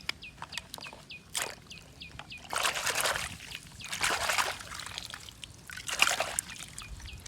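A bird chirping over and over, short high calls about three a second that stop about two seconds in. Then three or four short bursts of noise, the loudest about three seconds in.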